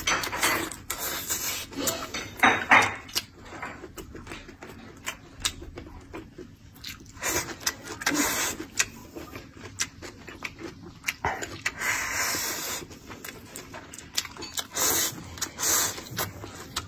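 Close-miked eating sounds: a man chewing mouthfuls of braised pork and rice, with many wet mouth clicks and smacks and short hissing slurps as strands of kelp are drawn in.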